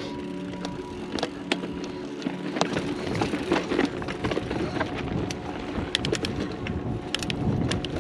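Background music ending about two seconds in, then a mountain bike rolling over a dirt trail: tyre rumble with sharp clicks and rattles from the bike, and wind on the microphone.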